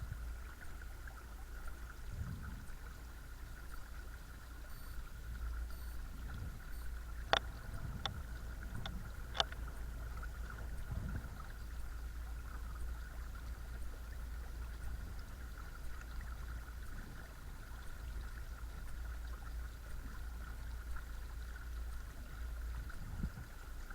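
Watersnake T24 12-volt electric trolling motor running steadily on speed setting 2, a constant thin whine over water wash and a low rumble. A few sharp clicks come about seven to nine seconds in.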